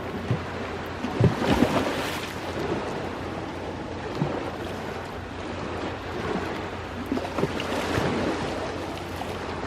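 Sea waves washing onto the shore, a steady rush of surf that swells louder twice, about a second in and again near the end.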